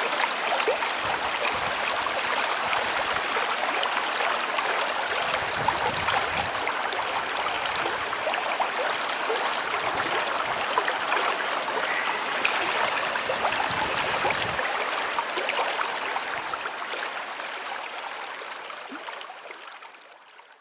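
Water from a man-made garden waterfall splashing steadily down its cascade into a pond, fading out near the end.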